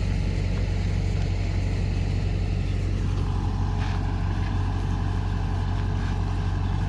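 Kubota DC108X combine harvester's diesel engine running steadily with a constant low drone.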